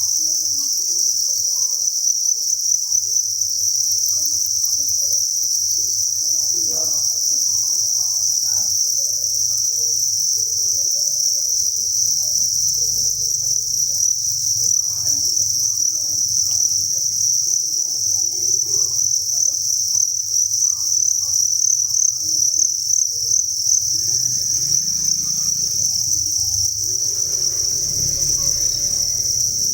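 Chorus of thousands of farmed crickets chirping together, a steady high-pitched trill that never lets up.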